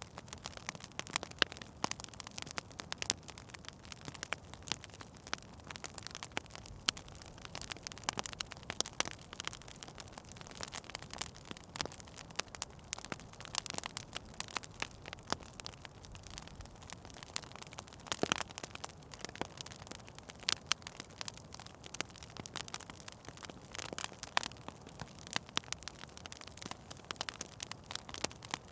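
Fire in an indoor fireplace crackling: irregular sharp pops and snaps over a steady soft hiss, with a few louder snaps scattered through.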